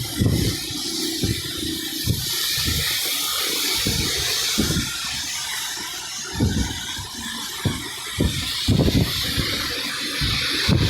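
Steady hiss of heavy rain, broken by irregular low thumps.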